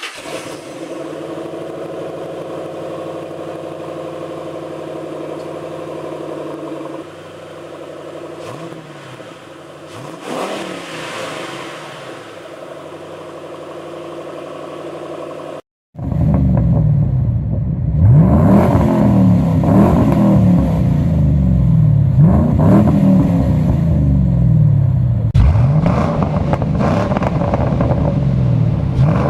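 Ford Mustang engine through a new exhaust with stainless headers and high-flow cats: first a steady engine note with a few brief rises in pitch, then, after a sudden cut, louder repeated revving, the pitch climbing and falling again and again.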